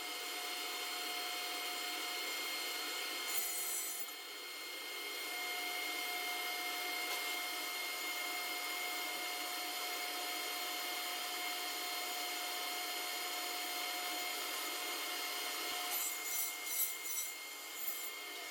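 SawStop table saw running and cutting through a melamine sheet: a steady hiss of blade on board with a fixed whine. The sound dips briefly about four seconds in, and there are some brief rattles near the end.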